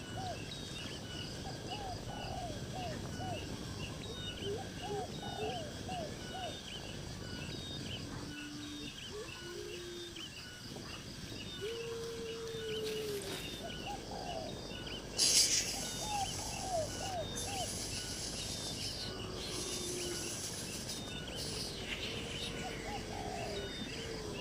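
Birds calling outdoors, short curving notes in groups of two or three repeated every couple of seconds, over a steady high chirping like crickets. A brief rustle about fifteen seconds in.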